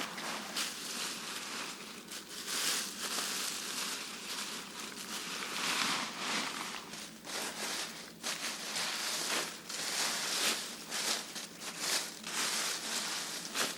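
Irregular rustling and crunching, with many short crisp cracks at uneven intervals.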